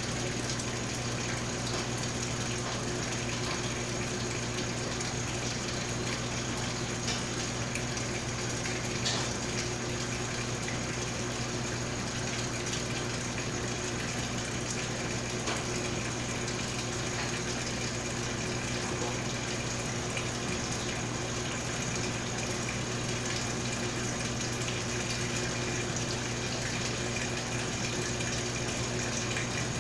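Mabe Multiprática washing machine filling with water, water rushing steadily into the tub with a steady low hum under it.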